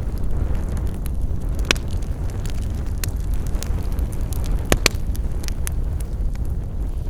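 Campfire burning: a steady low rumble with scattered sharp crackles and pops, the two loudest pops about a second and a half in and just before five seconds in.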